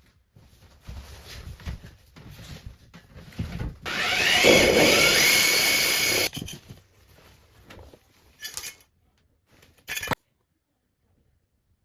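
Power drill run once for about two seconds, its pitch rising as it speeds up, to drill the hole for the sink waste pipe. Scattered knocks and handling sounds come before it, and two short bursts follow near the end.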